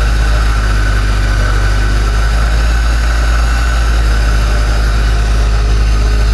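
Vibration shaker table running with a steady, loud low hum, shaking a CB radio to try to bring out an intermittent audio fault.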